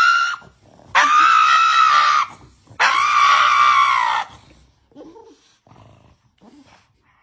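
Pug screaming in distress: two long, loud, high-pitched wails, each over a second, right after the tail of a third, then a few faint whimpers.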